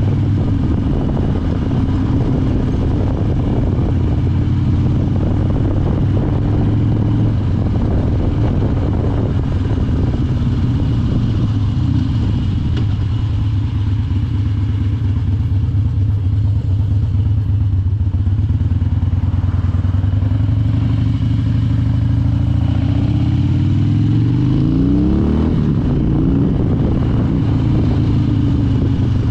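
Harley-Davidson Dyna Wide Glide's V-twin engine running steadily, revving up and back down about 24 seconds in.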